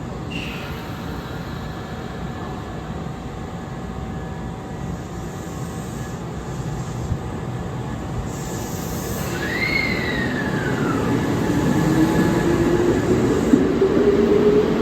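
Kintetsu electric limited express train pulling out of a station: a steady rail and running rumble, with a short whine falling in pitch about ten seconds in, then a motor whine rising in pitch as the train accelerates and the sound grows louder.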